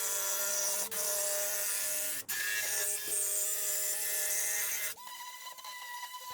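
Handheld power tool running steadily as it cuts a notch in a wooden board, with two brief breaks about one and two seconds in. About five seconds in it drops to a quieter, steady hum.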